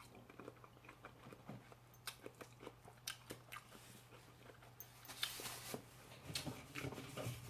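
Close-up eating sounds of a person chewing: soft wet clicks and crunches as she bites and chews noodles and cucumber, a little busier in the second half.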